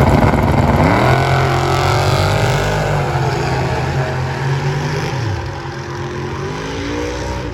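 Car engine at full throttle on a drag strip. Its pitch climbs, drops about five seconds in, then climbs again, and the sound slowly fades as the car pulls away.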